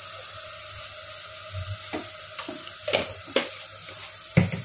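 Tomato-spice masala sizzling steadily in an aluminium pot on a gas stove. A few sharp clicks and knocks of utensils come from about two seconds in, with the loudest knock near the end.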